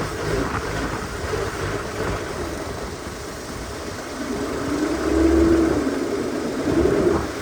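An engine running, its pitch rising and falling as it is revved, loudest about five seconds in.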